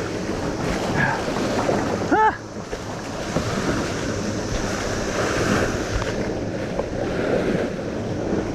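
Steady rushing of wind on the microphone and water moving around a kayak, with a short wavering pitched cry about two seconds in.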